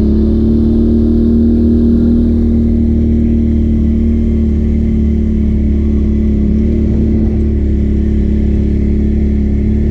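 A vehicle engine running at a steady speed: a loud, even, low hum that holds one pitch.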